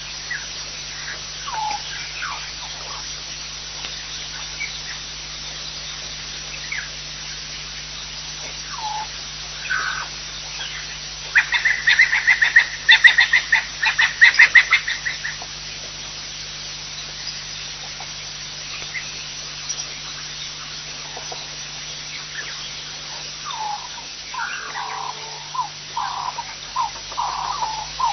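Wild birds calling: scattered short chirps, then a loud rapid run of repeated notes lasting about four seconds, starting about eleven seconds in. A series of lower repeated calls starts near the end, all over a steady low hum.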